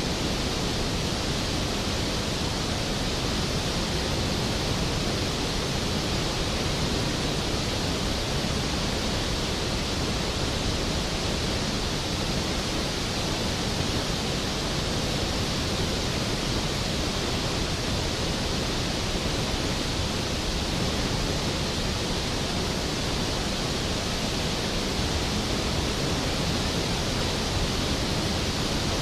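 Skógafoss waterfall, a large waterfall plunging onto rocks, giving a steady, dense rushing that stays unchanged throughout.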